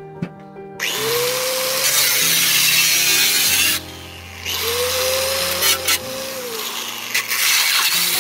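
Power tool working the metal stockpot, run in loud hissing bursts with a pause of about half a second in the middle. Its motor whine rises as each run starts and falls as it spins down.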